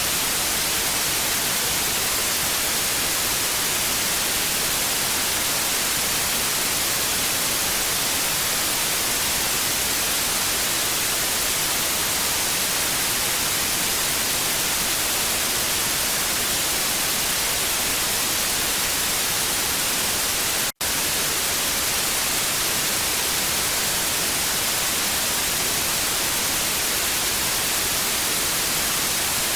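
Television static: a steady, even hiss, brightest in the high end, with one momentary break about two-thirds of the way through.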